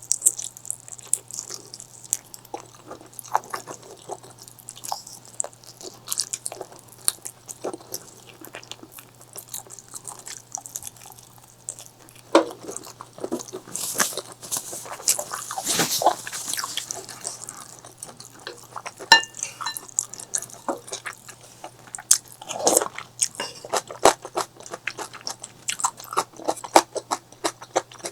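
Close-miked eating: a steady run of chewing and biting, with wet mouth clicks and crunches. It grows denser and louder for a few seconds about halfway through.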